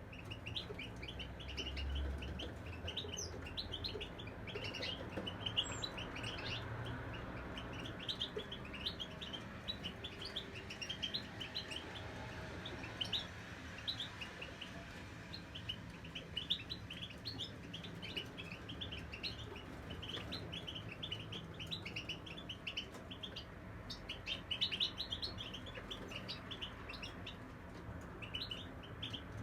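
European goldfinch singing: a rapid, continuous stream of short, bright twittering notes and trills.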